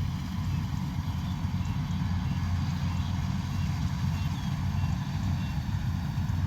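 Combine harvester's diesel engine running steadily, a continuous low rumble with no change in pace.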